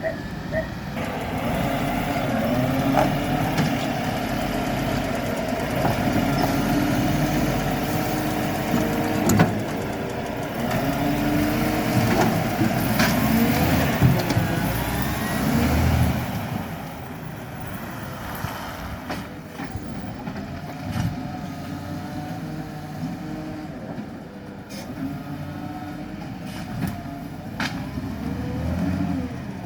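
Green-waste garbage truck working: its engine runs with rising and falling tones and a few sharp knocks. It is louder through the first half and settles lower from about halfway.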